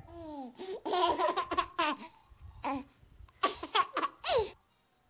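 Young women laughing in two bouts of short, pulsing laughs.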